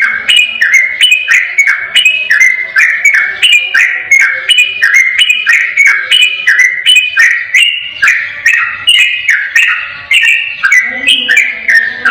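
Yellow-vented bulbul (trucukan) singing a long, unbroken 'ropel' run: quick phrases of clear, stepped whistled notes, about two a second, with no pause.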